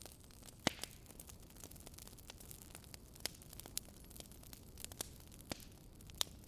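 Wood fire in a fireplace crackling: a steady low hiss with frequent sharp pops, the loudest about a second in and near the end.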